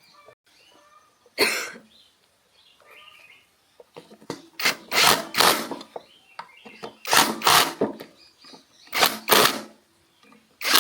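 Hand-tool work on a small gasoline engine: a series of short clanks and scrapes, in bursts of under a second, coming in clusters every second or two.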